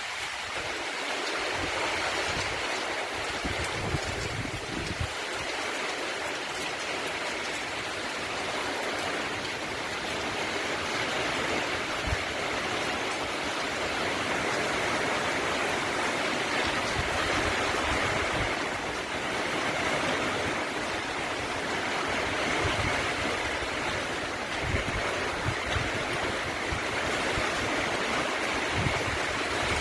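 Heavy rain and strong cyclone wind making a steady rushing hiss, with gusts buffeting the microphone in low thumps throughout.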